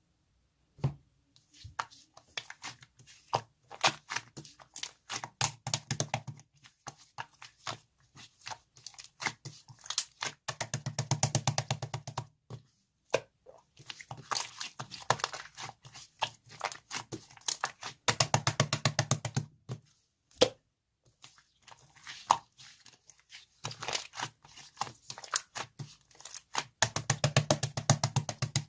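Close-up crackling and crinkling handling sounds in bursts of a few seconds, with short pauses between.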